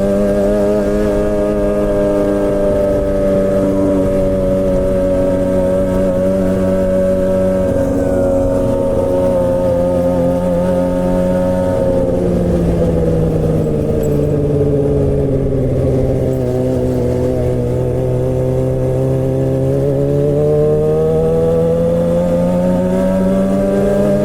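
Suzuki GSX-R600 K7's inline-four engine through a straight-pipe M4 exhaust with no catalytic converter, running under way at steady revs. The revs fall about halfway through and climb again near the end.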